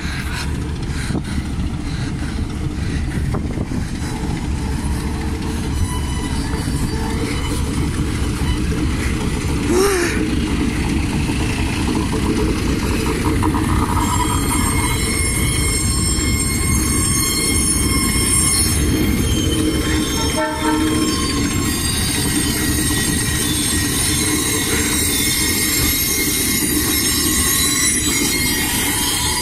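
Freight train led by two diesel locomotives rumbling slowly past at close range, wagons rolling behind them. From about halfway through, the wheels squeal on the rails with several high, steady tones.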